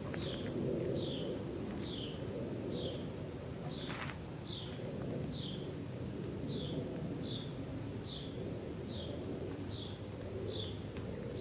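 A small bird repeating a short, high, falling chirp about once every three-quarters of a second, over a steady low rumble of background noise.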